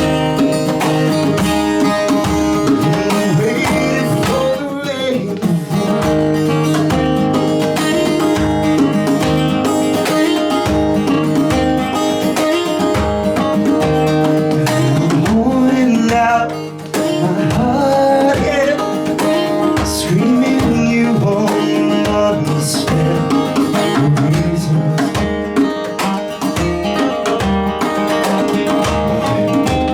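A band playing an instrumental passage: guitars over a steady beat, with a lead line that bends up and down in pitch.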